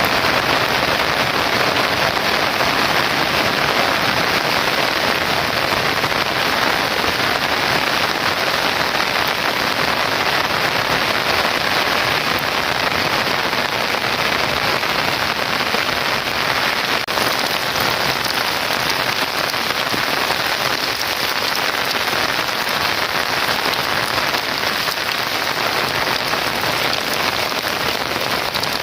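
Heavy rain falling steadily, a dense even hiss of downpour on surfaces.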